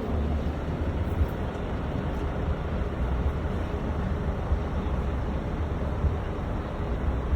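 Engine of a 1964 Scania-Vabis L56 diesel truck running steadily, a low rumble.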